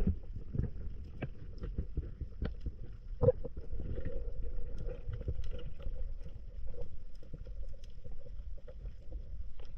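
Water sloshing with a low rumble and many scattered sharp clicks, and a faint steady hum throughout.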